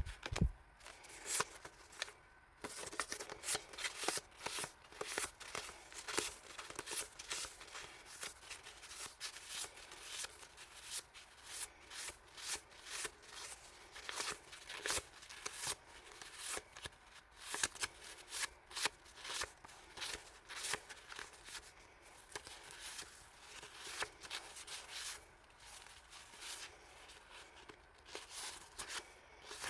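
Paper and plastic packaging being handled: irregular rustling and crinkling with many small clicks, as sheets of collage paper and wrappers are shuffled and unwrapped. A single low bump sounds at the very start.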